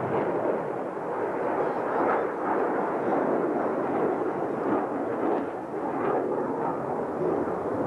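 Jet engine noise from Blue Angels F/A-18 Hornets flying the display: a loud, steady rush with slight swells.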